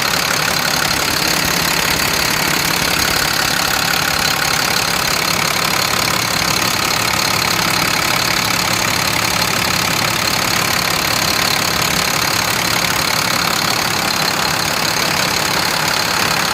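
International DT466 inline-six diesel engine idling steadily, running again after repair of its high-pressure oil system.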